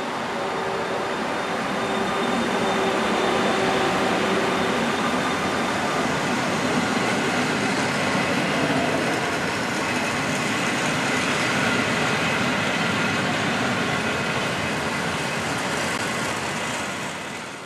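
Passenger train running on the rails: a steady rush of wheel and track noise with faint whining tones. The sound drops off abruptly at the end.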